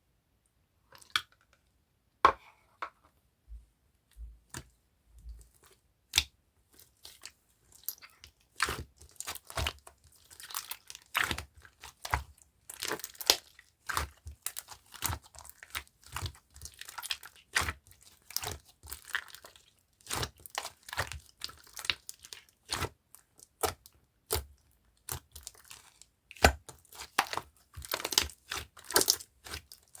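Clear slime being squeezed and stretched by hand, giving irregular sticky pops, clicks and crackles, a few at first and coming thick and fast from about eight seconds in.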